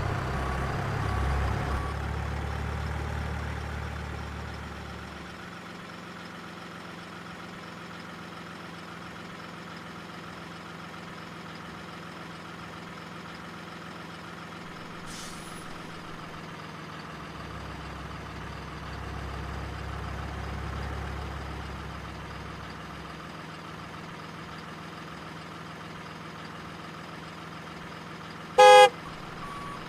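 Remote-control truck's engine sound running steadily, swelling louder twice as if revved, then one short loud horn blast near the end.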